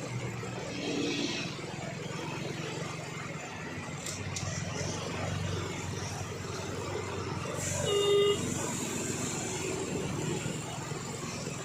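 Heavy truck engine running steadily, with a short horn toot about eight seconds in.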